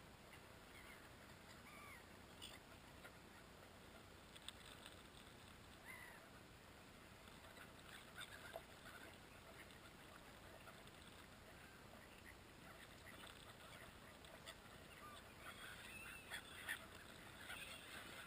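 Faint, scattered bird calls over a steady low hiss, with the calls growing busier near the end.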